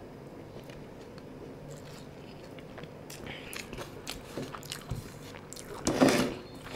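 Close-up eating sounds of a person chewing a mouthful of biryani, with small wet mouth clicks. A brief louder mouth noise comes about six seconds in.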